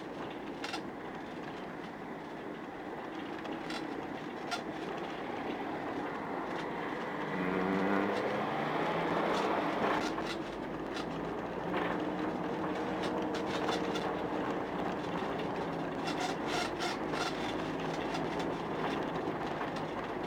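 A vehicle running during a slow drive, with a rising whine about seven seconds in as it speeds up, then running at a steady pitch, with a few faint clicks.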